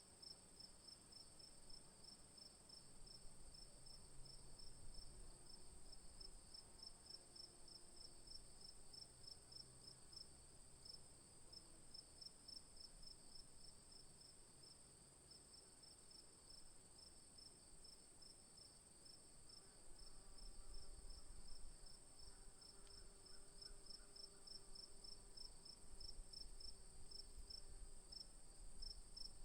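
Faint insects chirping, cricket-like: a steady high-pitched trill together with a rapidly pulsing chirp, unbroken throughout.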